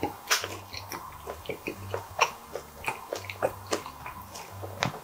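Close-up chewing with the mouth closed: a rapid, irregular run of wet clicks, smacks and crackles as food is worked in the mouth.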